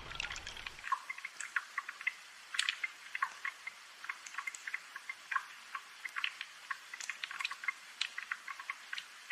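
Rain falling as a dense, irregular patter of close drips and small ticks. A low rumble underneath stops about a second in.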